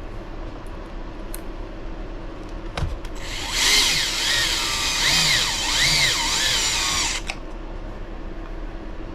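Small cordless electric screwdriver driving a screw into the buggy's chassis, running for about four seconds with its whine rising and falling as the trigger is eased on and off. A light click comes just before it starts.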